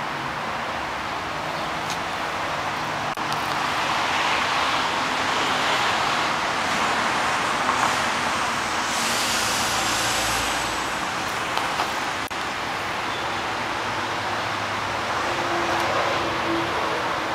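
Motor vehicle noise: a steady rush of road and engine sound that swells twice, as a vehicle passes or revs.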